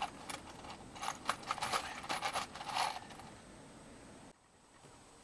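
Small screws clinking and rattling in a box as they are sorted through by hand: a string of quick metallic clicks for about three seconds, then it goes quiet.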